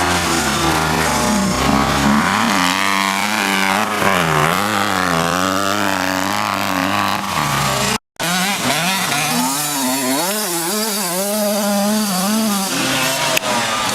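85cc two-stroke motocross bike engine revving up and down repeatedly as the rider works the throttle. The sound cuts out for a split second about eight seconds in, then the engine resumes revving.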